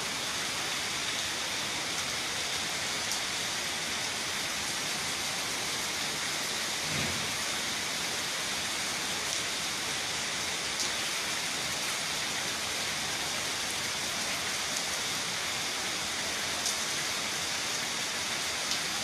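Very heavy rain pouring down, a steady, even hiss of rain that does not let up.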